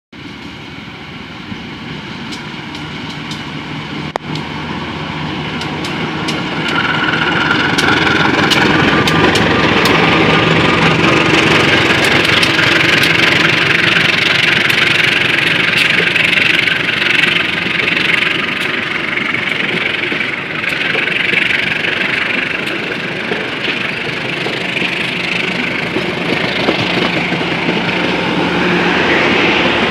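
Diesel locomotive engine running under power as a passenger train pulls away, growing louder over the first several seconds and then holding steady, with scattered light clicks.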